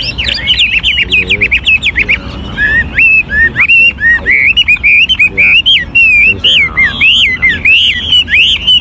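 Chinese hwamei singing loudly: a fast, varied run of whistled notes, then repeated upslurred phrases about two to three a second.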